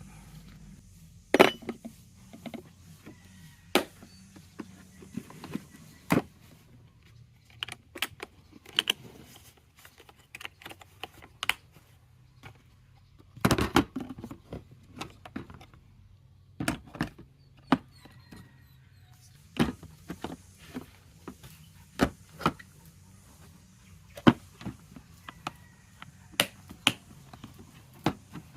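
Irregular sharp clicks and knocks, mostly a second or two apart with a few quick clusters, over a faint low hum.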